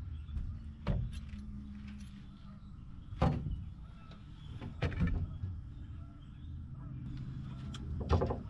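Several sharp knocks and clatters over a low, steady rumble: about one a second in, one at three seconds, two close together near five seconds, and the loudest near the end.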